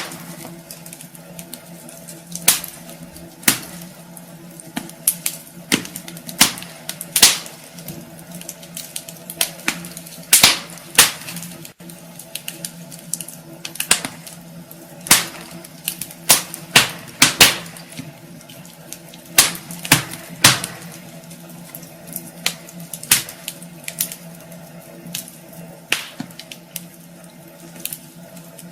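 Wood fire crackling in a fireplace, with irregular sharp pops and snaps, a few much louder than the rest, over a faint steady hum.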